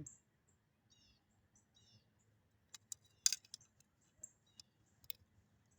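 Small birds chirping in short, repeated, high, falling phrases, with a few sharp clicks or taps, the loudest about halfway through.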